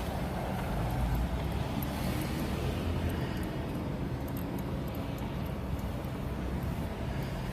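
A car being driven along, with steady engine and road rumble heard from inside the cabin with the windows down.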